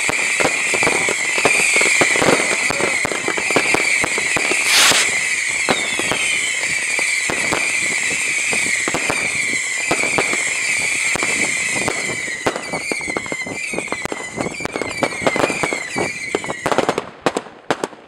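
Consumer fireworks going off in quick succession: a dense stream of crackling and popping over a continuous wavering whistle, with one loud bang about five seconds in. A second or so before the end, the whistle stops and separate pops and crackles are left.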